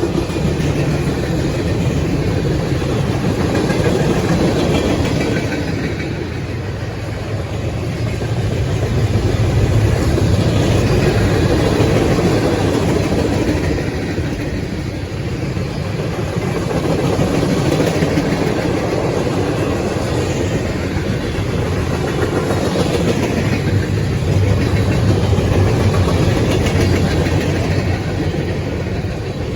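Freight train cars of a manifest train rolling past at track side: a steady rumble of steel wheels on rail, swelling and easing every several seconds.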